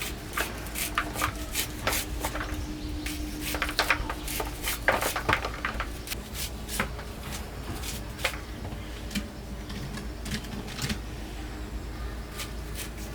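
A run of irregular sharp clicks and snaps with rustling, as of hands handling and working something, with a faint steady hum for about the first five seconds.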